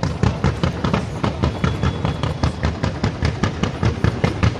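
Fireworks barrage: a multi-shot cake firing fans of comets, a rapid, even string of launch bangs, several a second, starting suddenly.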